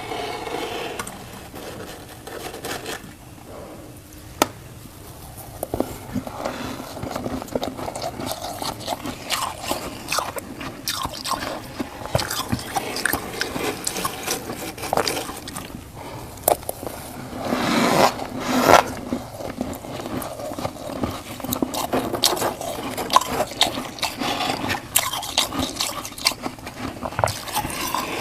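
Crunchy freezer frost being scraped and crunched: a dense, irregular crackling and scraping, with a louder burst a little past halfway.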